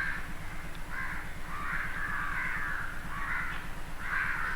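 Crows cawing again and again, several calls in a row with hardly a break.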